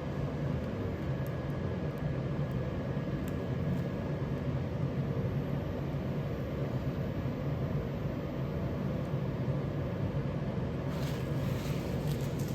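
Steady low mechanical hum of a running motor, with a few faint brief hisses near the end.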